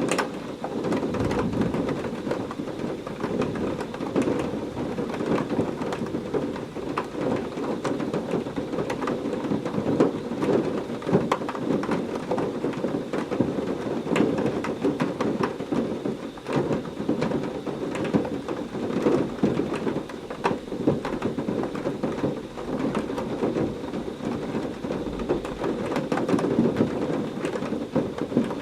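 Heavy rain pouring steadily, a dense patter of drops over a low, continuous rumble of thunder.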